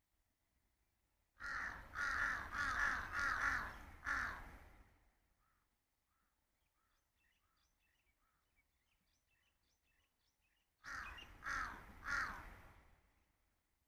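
Bird calls: a run of about five loud, harsh calls in quick succession, then faint short chirps, then three more loud calls near the end.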